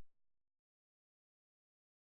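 Complete silence: the audio drops out entirely, with no sound at all.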